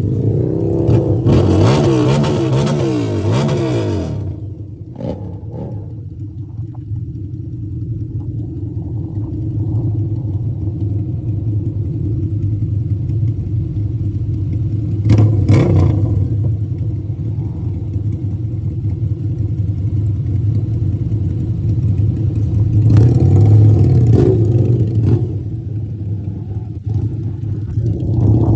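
Harley-Davidson V-twin motorcycle engine running under way, its revs rising and falling in the first few seconds and again near the end, with a steady rumble between.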